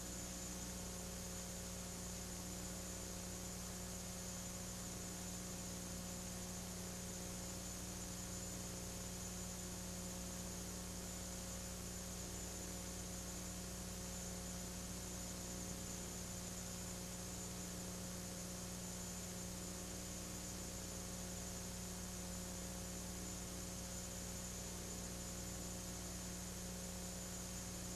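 Steady electrical mains hum with an even background hiss and nothing else; no program sound.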